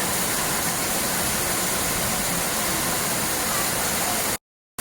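Steady rushing of running water, an even noise that breaks off into silence for a moment near the end.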